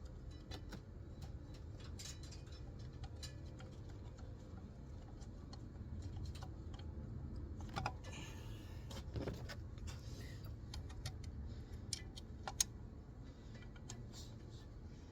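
Scattered light metallic clicks and clinks of car parts and tools being handled, over a steady low hum.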